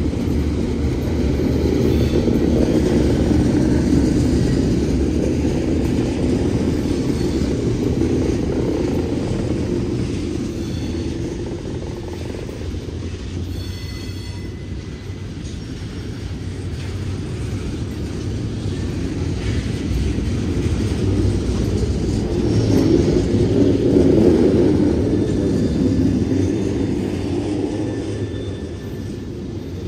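Freight cars rolling past: a steady low rumble of wheels on rail that swells twice, with a brief high squeal about halfway through.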